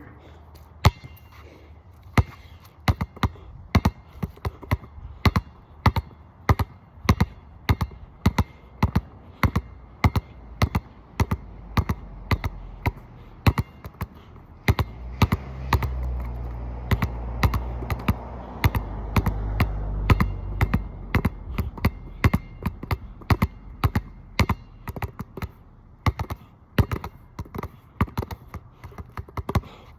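Basketball dribbled on a wet outdoor court: sharp bounces, about two to three a second in an uneven rhythm. A low rumble comes in about halfway through and fades after several seconds.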